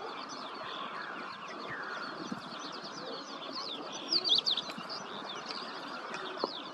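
Many small birds chirping in quick, short, high notes, with a louder flurry of chirps about four seconds in.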